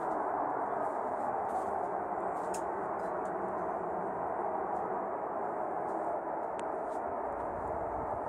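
A steady, loud hum from the sky with no clear source, which at first might be taken for a plane passing over but does not fade away.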